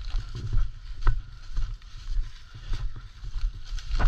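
A low, uneven rumble with a light hiss, like wind on an outdoor microphone, broken by a few scattered knocks and rustles.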